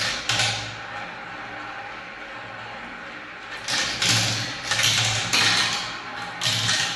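Marbles rolling and clattering down a spiral marble-run track: a steady rolling rattle that grows louder in surges from a little past halfway.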